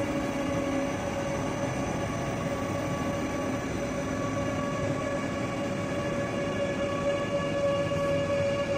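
ICE 3 high-speed train (DB class 406) moving slowly along the platform, its running noise carrying a steady whining tone.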